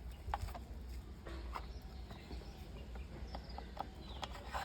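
Scattered light plastic clicks and taps from a toy school bus's wheels being handled and pressed onto their axles, a few faint clicks spread over a few seconds above a low hum.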